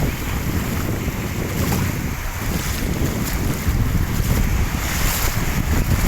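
Wind buffeting the microphone, with a steady rush of water.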